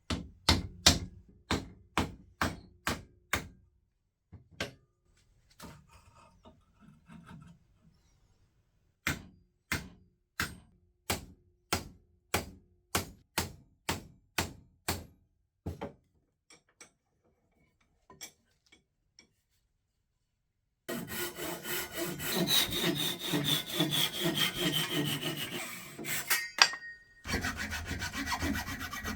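Rhythmic strokes of a hand tool working wood, about two a second, in two runs. Later comes a dense, continuous scraping with a faint falling whine, which breaks off briefly and starts again near the end.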